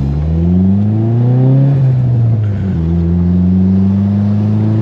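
Turbocharged all-wheel-drive car's engine pulling hard under acceleration, heard from inside the cabin. Its pitch climbs, drops sharply at an upshift about two and a half seconds in, then rises again in the next gear.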